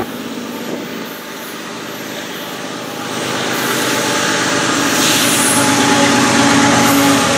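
Rumble of a freight train, growing louder from about three seconds in, with a steady low engine hum in the second half.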